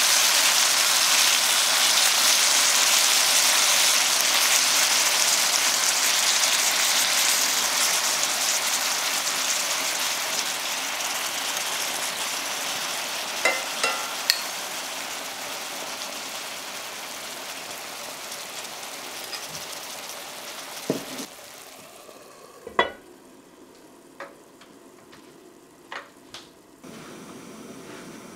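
Chicken thighs and mushrooms sizzling in teriyaki sauce in a cast-iron skillet. The sizzle is steady at first and slowly dies away, and a few sharp clicks follow near the end.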